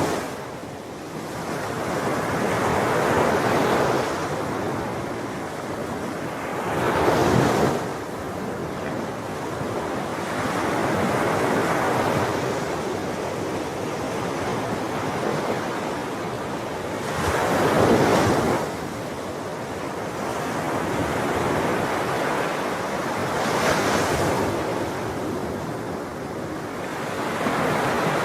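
Sea waves breaking on a shore, a steady wash of surf rising to louder breakers about a quarter of the way in, past the middle, and again later on.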